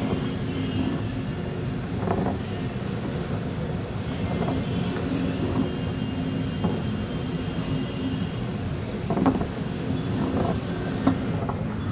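An engine running steadily with a low hum, with a few short knocks and bumps over it.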